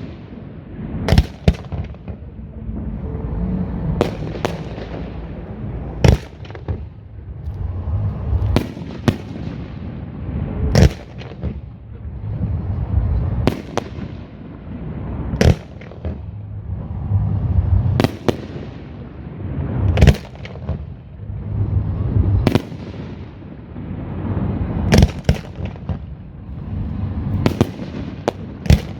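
Aerial fireworks shells bursting during a display: sharp booms about every two seconds, with a continuous low rumble between them.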